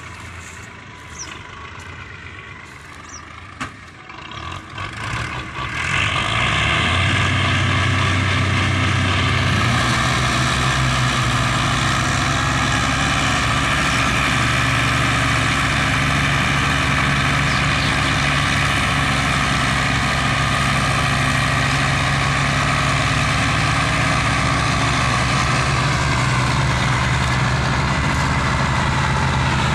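Tractor diesel engines running hard, as in a pulling power test. The sound jumps up sharply about six seconds in and then holds loud and steady.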